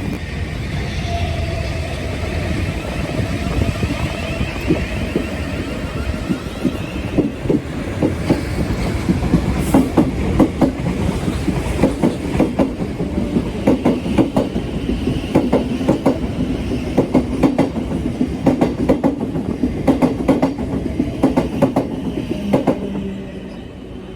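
A passenger train running past close by, its wheels rumbling and clattering rapidly over rail joints and points; the clatter dies away near the end.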